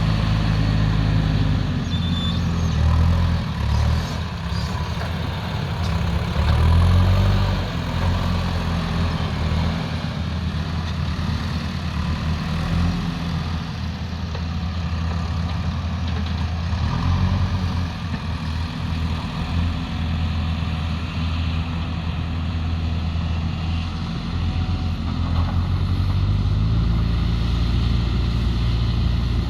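Diesel engine of heavy earthmoving machinery running under varying load, its revs dipping and rising several times and climbing again near the end.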